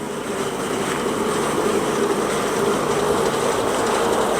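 Car driving, heard from inside the cabin: a steady engine hum and road noise that grow slightly louder.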